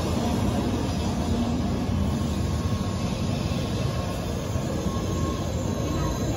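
N700A Shinkansen train moving slowly alongside the platform, a steady low running noise of its motors and wheels on the rails.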